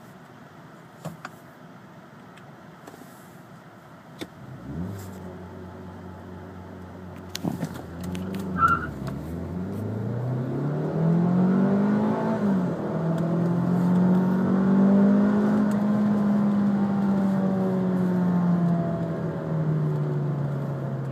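2012 Ford Focus's 2.0-litre four-cylinder engine, heard from inside the cabin. It idles, then about five seconds in is revved and held steady at just under 3,000 rpm by launch control, with brake and throttle both pressed. The brake is then released: the revs dip, climb fast through first gear, drop suddenly at an upshift of the dual-clutch gearbox, and rise again more slowly in second.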